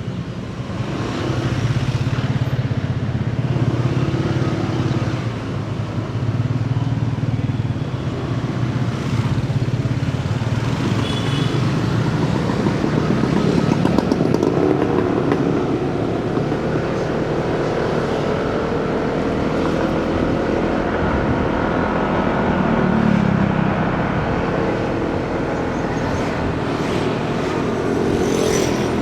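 Motorcycle engine running while riding in city traffic, its note rising and falling with speed, over road and wind noise.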